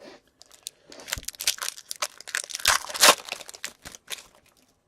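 Foil wrapper of a hockey card pack crinkling and tearing as it is opened, a dense run of crackles lasting about three seconds.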